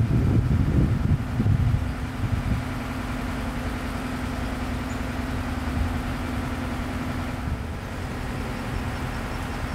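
An engine idling steadily with a low hum, with rough wind-like noise in the first couple of seconds.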